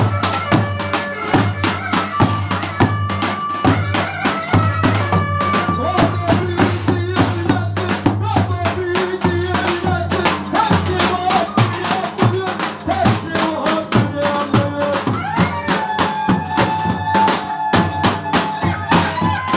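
Turkish Black Sea folk dance tune played live: a drum beats a fast, steady rhythm under a melody of held and sliding notes.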